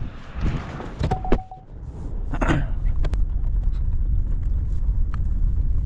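Pickup truck engine idling with a steady low rumble, with a few clicks and a short beep about a second in and a brief clunk at about two and a half seconds.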